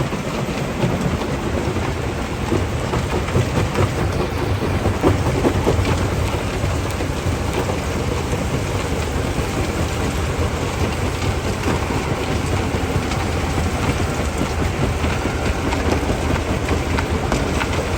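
Stone crushing plant running: a steady low rumble under a dense, continuous rattle of rock being broken and tumbling through the machinery, a little louder a few seconds in.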